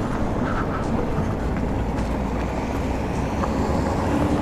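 Wind and road rumble on the microphone while the electric motorcycle rolls slowly, with a steady hum coming in near the end.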